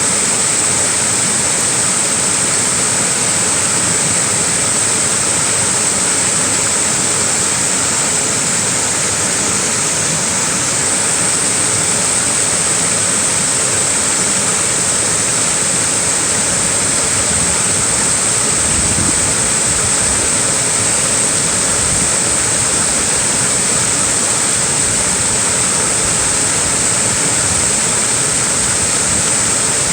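Small waterfall: a steady, even rush of falling water with a bright hiss on top.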